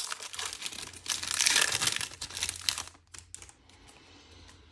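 Foil wrapper of a trading-card pack crinkling as it is torn open, for about three seconds, then dying down to a few faint clicks of handling.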